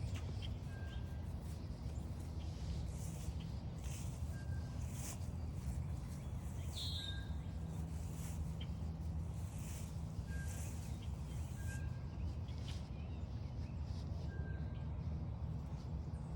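A bird repeating a short single-pitched note about six times, a few seconds apart, over a steady low outdoor rumble. A brief higher call comes about seven seconds in, and faint light steps run along the trail.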